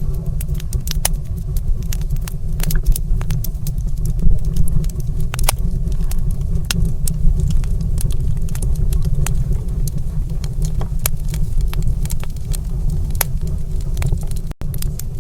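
Wood fire crackling: irregular sharp pops and snaps over a steady low rumble, with a split-second dropout near the end.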